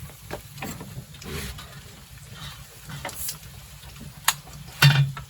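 Scattered clicks and knocks of tableware and utensils at a meal of grilled pork belly, with a sharp click about four seconds in and a louder clatter near the end.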